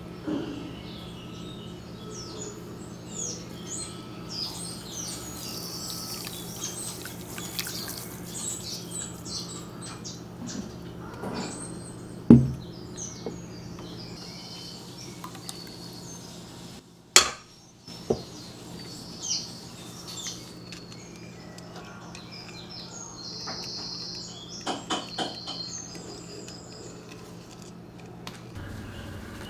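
Birds chirping in short, scattered calls over a steady low hum, with two sharp knocks about twelve and seventeen seconds in.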